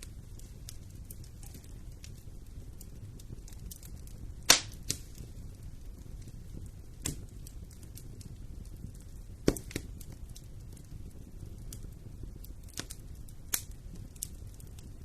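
Wood fire in a fireplace crackling over a steady low rumble, with frequent small snaps and a few louder pops, the loudest about four and a half seconds in.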